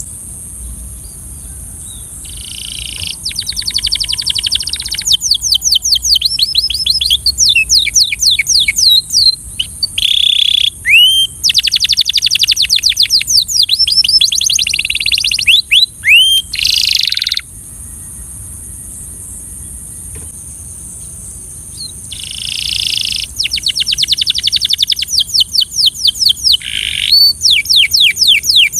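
Belgian canary singing in fast trills of rapidly repeated high notes, broken by a few sweeping whistled notes. It sings for about fifteen seconds, pauses for about five, then starts again. A steady high hiss runs underneath.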